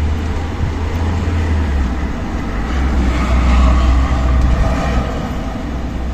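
Strong desert wind blowing, buffeting the microphone with a deep rumble; a gust swells about halfway through.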